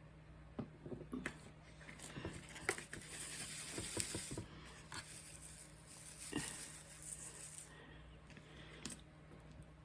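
Faint handling noises: scattered light taps and clicks, with a stretch of rustling in the middle.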